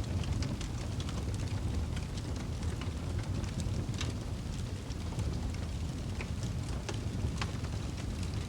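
Fireplace crackling: a steady low rumble of burning with irregular sharp pops and snaps throughout.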